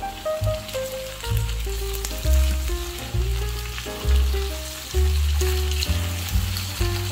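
Sliced potatoes and onions sizzling in hot oil in a frying pan, with small clicks as a spatula turns them. Background music with low bass notes and a simple melody plays over it.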